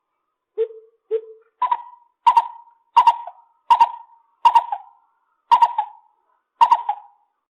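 Lesser coucal calling a series of nine short hoots. The first two are low; the rest are higher-pitched and come gradually further apart.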